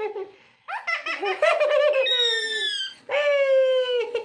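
A pet parrot calling: a quick run of short laugh-like notes, then a high falling whistle, then one long held call near the end.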